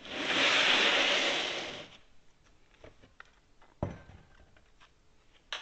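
A plastic parts tray slid across the workbench, a loud scraping rush lasting about two seconds. Just before the four-second mark a single dull knock as the cast-iron arbor press frame is set down, and a sharp knock near the end.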